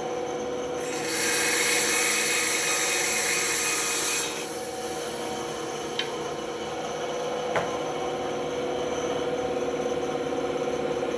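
Band saw running with a steady hum. Its blade cuts through a workpiece with a louder hiss from about one second in to just past four seconds. Two short clicks come later.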